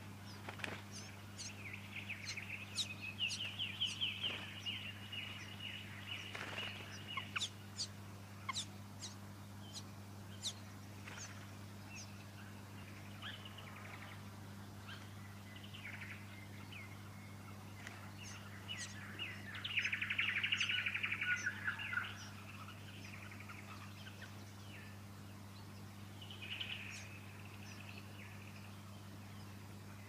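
Fuscous honeyeater nestlings begging at the nest: bursts of high, rasping chirps, with the loudest burst lasting about two seconds around twenty seconds in, over a steady low hum.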